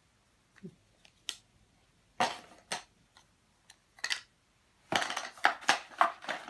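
Clicks and clatter of small hard objects being handled, a few scattered at first, then a quick run of them in the last second and a half.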